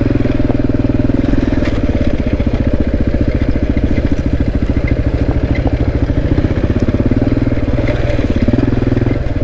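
Motorcycle engine running steadily at low revs, with an even, fast pulse and no revving.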